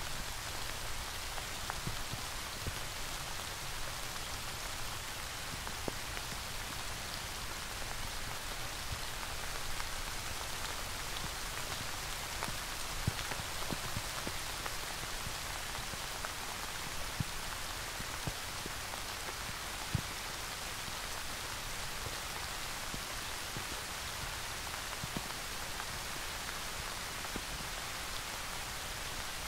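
Steady rain falling, an even hiss with a few louder single drops standing out now and then.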